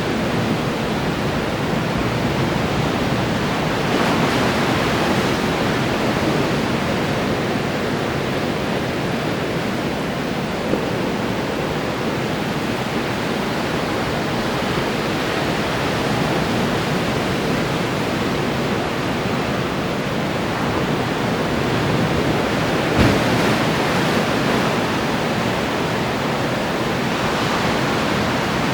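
Ocean surf: waves breaking and washing in as a continuous steady rush, swelling slightly a few times.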